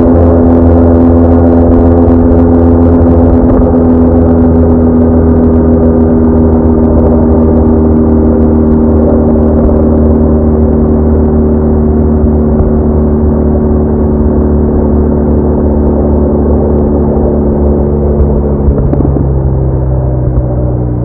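BMW R1200R's boxer-twin engine running at a steady cruise, its note easing slowly lower, with a change in the note near the end as the revs drop.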